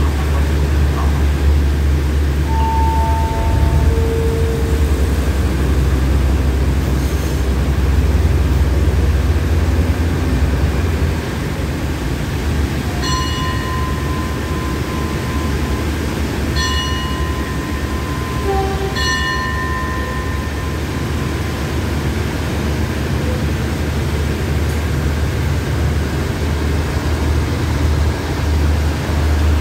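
Passenger train at a station platform with a deep, steady engine rumble, heaviest in the first third. Around the middle come three short high-pitched signal tones, and the carriages begin to roll.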